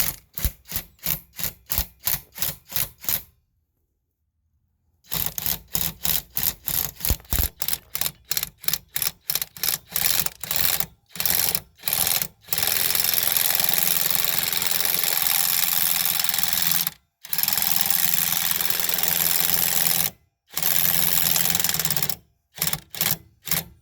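Impact wrench hammering a lug nut down to pull a new wheel stud into the hub. It runs first in quick short bursts, about four a second, then in longer continuous runs of a few seconds with brief stops between them.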